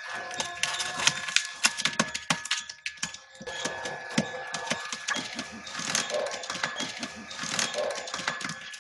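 Rapid, irregular clicks, taps and scrapes against a cardboard pigeon house, with a faint steady tone underneath.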